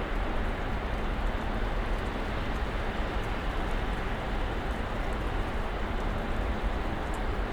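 Snowstorm wind: a steady, even rush of noise with a deep rumble beneath it.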